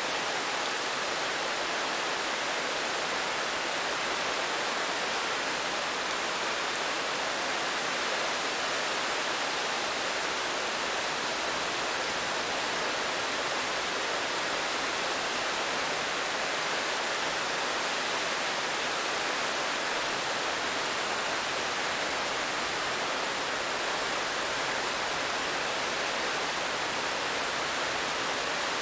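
Steady rain falling, an even unbroken hiss with no single drops or changes standing out.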